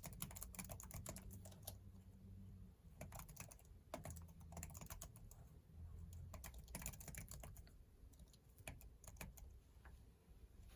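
Faint typing on a computer keyboard: quick runs of key clicks broken by short pauses, over a low steady hum.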